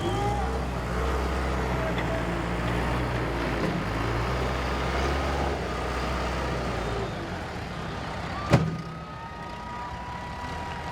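Demolition derby car engines running in a low, steady rumble, easing off about seven seconds in, then one sharp loud bang about eight and a half seconds in.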